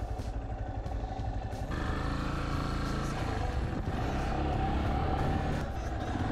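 Yamaha SEROW 250's single-cylinder engine running under way, growing louder and fuller about two seconds in and easing off again near the end.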